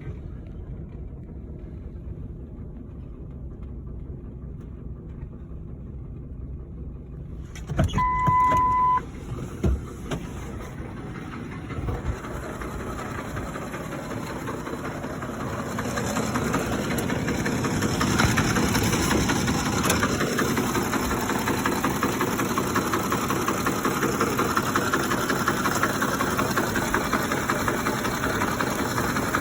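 Ford 5.4L three-valve Triton V8 idling rough with a rattle like an old diesel, which sets in once the engine is warm after about 20 minutes of driving. About eight seconds in, a steady electronic beep sounds for about a second among a few knocks. From about halfway on, the engine and its rattle are heard louder.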